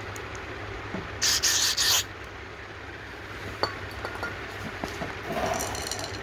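A hissing spray blast of just under a second, in two or three pulses, aimed at small carburetor parts during cleaning. It is followed by light clinks and rubbing as the small metal parts are handled.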